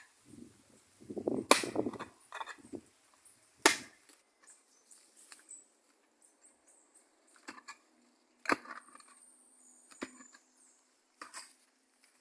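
A hand tool chopping: about six sharp strikes at uneven intervals, the two loudest in the first four seconds, with some rustling between the first strikes.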